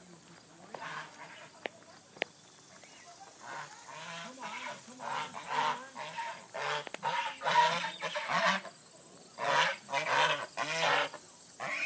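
Domestic birds calling: after a couple of sharp clicks, a run of loud, repeated calls begins a few seconds in and carries on in clusters.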